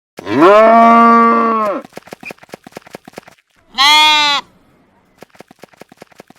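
Sheep bleating: one long, level call near the start and a shorter one about four seconds in, with faint irregular clicking between them.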